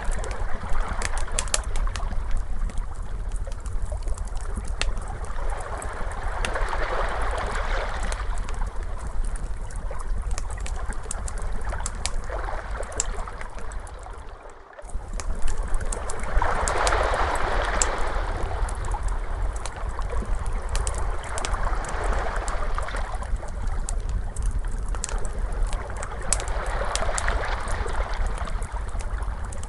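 Ocean waves washing in and out about every five seconds over the steady crackling and popping of a wood fire, with a low rumble underneath. The sound drops out briefly about halfway through.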